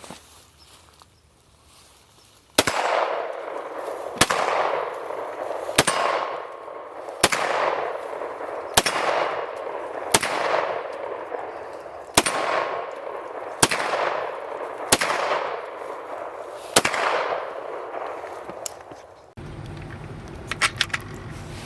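A series of about ten single gunshots, roughly a second and a half apart, each followed by a fading echo. The shots stop a couple of seconds before the end, when a steady low hum takes over.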